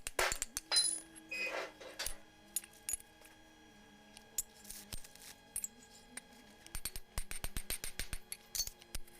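Metal tools and parts clinking and tapping in quick runs of sharp clicks, over faint steady music.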